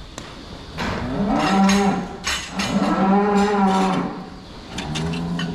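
Cows mooing in the barn: three long, drawn-out moos one after another, the middle one the loudest.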